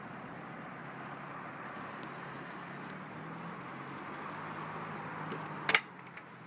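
JCB 535-140 telehandler's diesel engine idling steadily, with one sharp knock near the end.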